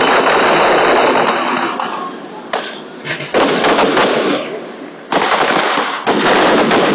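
Aerial firework shells bursting overhead. Each sudden bang is followed by a long, dense crackle that fades, with fresh bursts about a third of the way in, just past the halfway mark and near the end.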